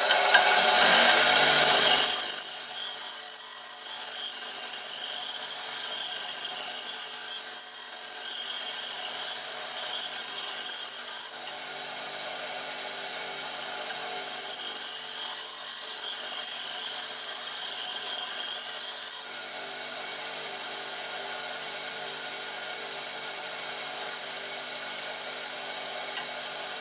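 Bench grinder running with a spindle gouge held in a jig ground against the wheel: a loud rasping hiss for the first two seconds, then a steady motor hum with stretches of lighter grinding, which eases around eleven and nineteen seconds in.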